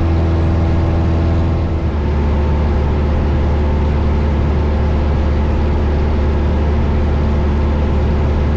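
Cabin drone of a Cessna 172 Skyhawk's four-cylinder piston engine and propeller in cruise flight, heard from inside the cockpit. It runs as a steady, loud hum that shifts slightly about two seconds in.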